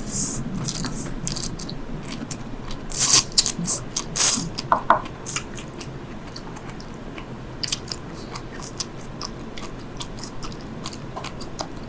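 Sea grapes being bitten and chewed close to the microphone: a run of irregular crisp crunching and popping clicks, loudest about three to four and a half seconds in, then sparser.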